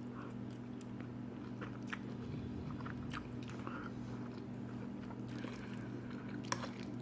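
Chewing a mouthful of spinach pasta, faint soft mouth sounds with a few small clicks, over a steady low hum.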